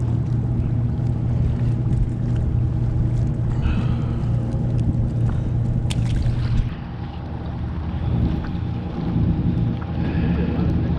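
Boat engine idling with a steady low hum, with a sharp click about six seconds in.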